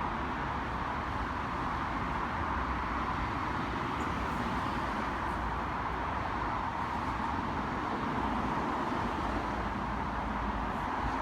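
Steady, even running noise of an NI Railways Class 4000 diesel multiple unit, with no horn, knocks or other distinct events.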